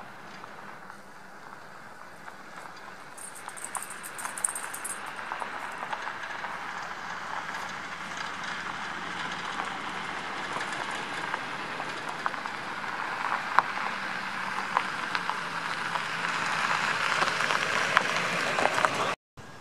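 Distant freight train rolling along the track: a steady rumble and rattle of wheels on rail with scattered small clicks, growing gradually louder, then cutting off suddenly near the end.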